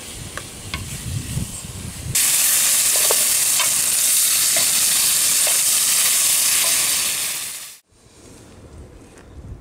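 Food frying in a hot pan, a loud sizzle with small spitting pops that starts abruptly about two seconds in and cuts off suddenly near the end.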